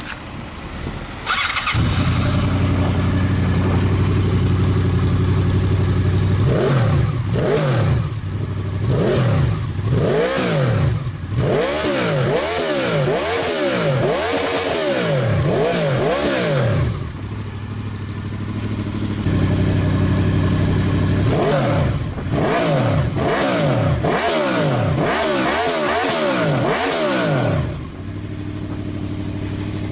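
Honda VFR800's V4 engine breathing through a Two Sons straight-through exhaust: it starts about a second in and settles into a steady idle. It is then revved in a long run of quick repeated blips, drops back to idle, is blipped again in a second series, and returns to idle near the end.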